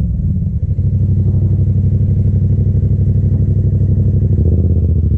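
Yamaha FZ-07's 689 cc parallel-twin engine running at steady revs, with a brief dip in level about half a second in.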